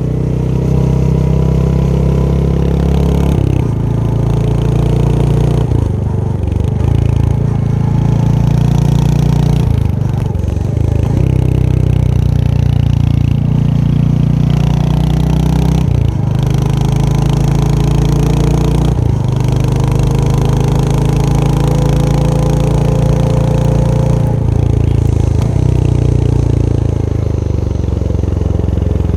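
Royal Enfield Hunter 350's single-cylinder engine running on the move, its exhaust note changing pitch in steps every few seconds as the rider shifts through the gears.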